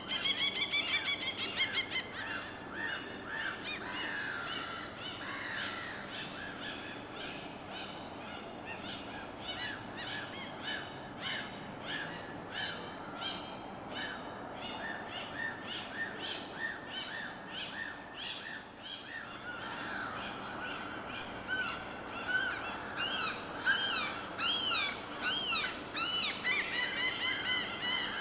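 Many birds calling over one another in quick, repeated chirps and arched calls, over a steady hiss of water. The calls come in louder flurries at the start and again from about two-thirds of the way through.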